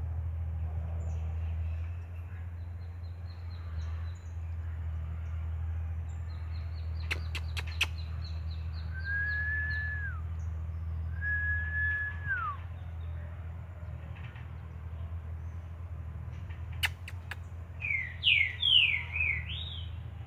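Birds calling: two long level whistles a couple of seconds apart, each dropping in pitch at the end, then a quick run of rising whistled notes near the end. A few sharp clicks and a steady low hum run underneath.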